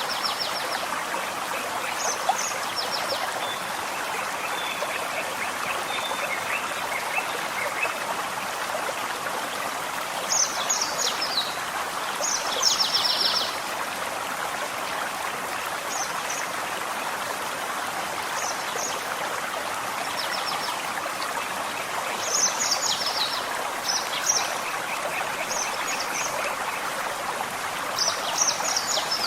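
A small forest stream running steadily, with songbirds singing over it: short, high, falling trilled phrases every few seconds, and a lower, longer trill about four to eight seconds in.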